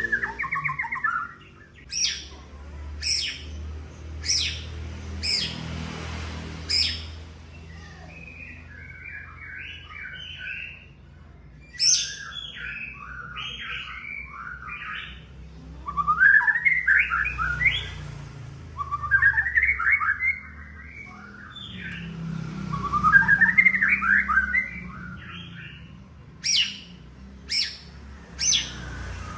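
White-rumped shama singing: a row of five sharp, loud single notes about a second apart, then a run of quick warbled phrases of two to three seconds each, and three more sharp notes near the end.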